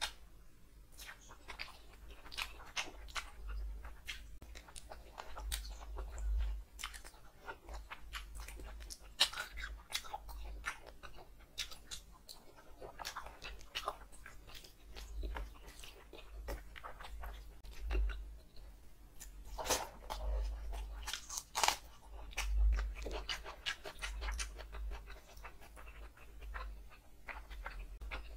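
Close-miked chewing and wet mouth sounds of a person eating rice and curry by hand: a steady run of irregular smacks and clicks, with squelches from fingers mixing rice into gravy.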